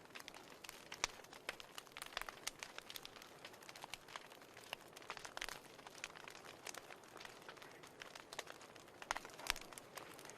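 Wood fire in a fireplace crackling: irregular sharp pops and snaps over a soft steady hiss, with a cluster of louder pops near the end.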